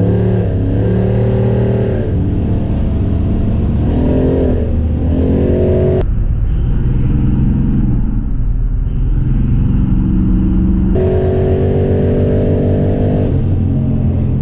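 Nissan 240SX engine pulling hard under heavy acceleration. Its pitch climbs through each gear and drops back at the shifts, with abrupt changes about six and eleven seconds in.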